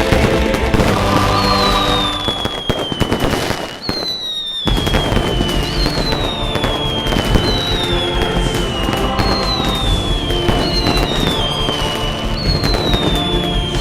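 Fireworks going off, with crackling and bangs, heard together with music. A falling whistle repeats about every one and a half seconds. Everything drops out briefly about four seconds in.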